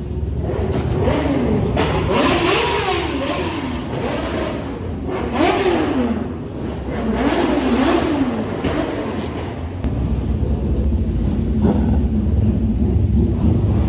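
Motorcycle engines revving repeatedly, the pitch rising and falling several times, then settling into a steadier low rumble about ten seconds in.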